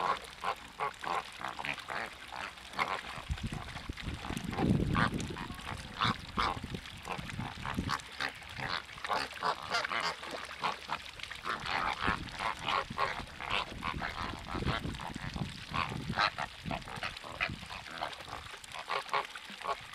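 A flock of waterbirds calling continuously, with many short, overlapping calls. There is a brief low rumble about four seconds in.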